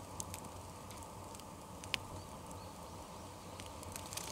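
Bonfire crackling faintly: a few sharp pops, the clearest about two seconds in, over a low steady noise.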